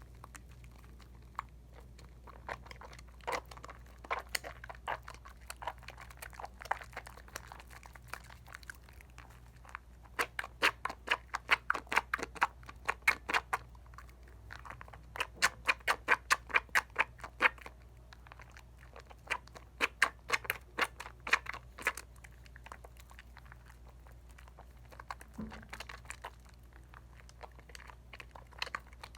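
Bar-soap lather being squished between hands, a quick wet squelching at several strokes a second, in bursts of a few seconds with short pauses between. A faint low hum sits underneath.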